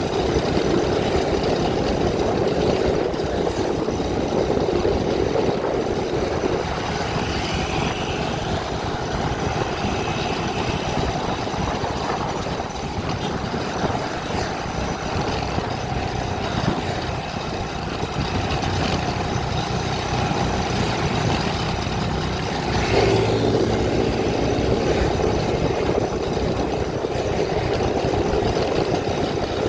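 Vehicle engine running with road noise as it drives, steady throughout, its tone shifting about 7 seconds in and again about 23 seconds in.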